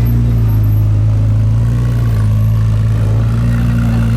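Car engine idling steadily at a constant low pitch, with no revving.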